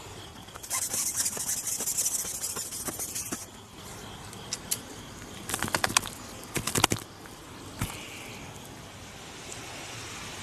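A caught crucian carp flapping and thrashing: a rapid fluttering patter for a couple of seconds starting about a second in, then a quick run of sharp slaps a few seconds later.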